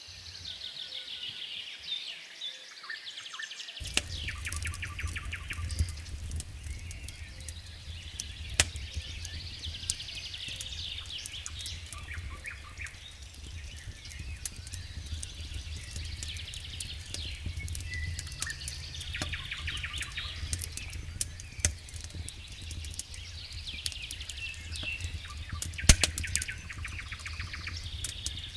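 Small birds singing in repeated high trilling phrases over a crackling wood fire, with sharp pops every second or two and one louder pop near the end. A steady low rumble comes in about four seconds in.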